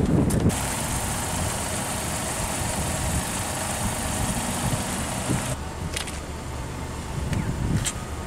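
A car engine idling steadily, with a broad hiss over it that stops abruptly about five and a half seconds in. A couple of sharp clicks follow near the end.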